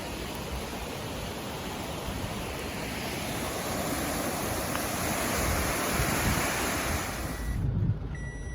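Steady rush of fast-flowing floodwater, growing a little louder, that cuts off abruptly near the end, where a short high beep starts.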